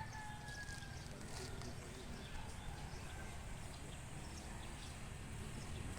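The tail of a rooster's crow, a long call falling slightly in pitch and fading out about a second in, over a faint steady low rumble.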